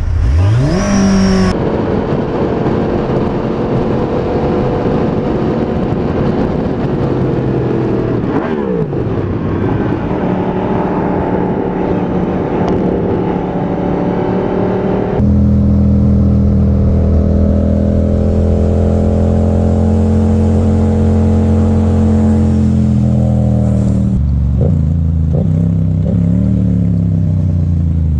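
Motorcycle engine running under way, revving up at the start and then holding steady, with a brief dip and rise in pitch near the middle of the first half. About halfway through, the sound switches abruptly to a louder, lower steady engine note.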